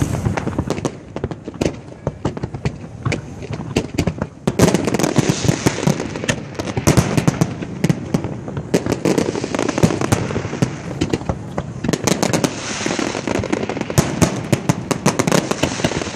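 Fireworks display: a rapid, irregular run of bangs and crackling bursts from many shells, getting denser and louder about four and a half seconds in.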